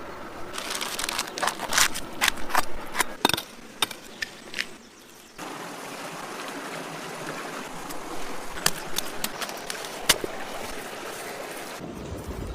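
Woodfire crackling with sharp pops over a steady rush of flowing water; the sound changes abruptly about five seconds in.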